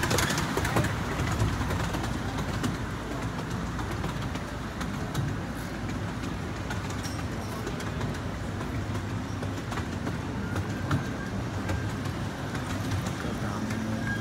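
Miniature park train's open passenger car rolling along the track: a steady rumble with scattered clicks from the wheels, and a faint high squeal joining near the end.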